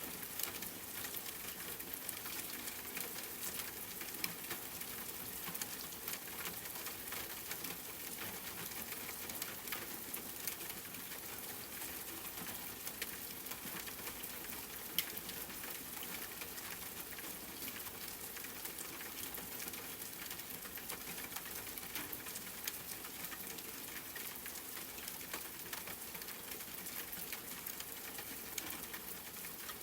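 Steady rain falling, an even patter of drops with now and then a sharper single drop, the loudest about halfway through.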